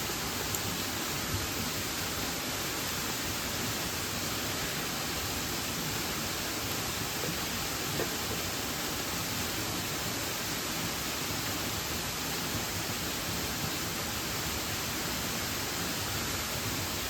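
Steady, even rush of a waterfall and mountain stream, with a few faint ticks about half a second in, a second or so later, and around eight seconds in.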